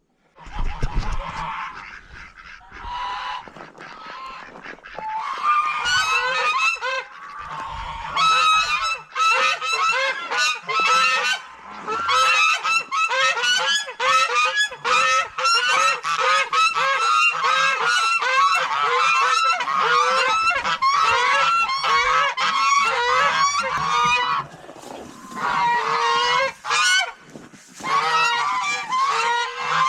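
A flock of domestic geese honking, a dense chorus of short, repeated calls that builds up a few seconds in and carries on with only brief lulls.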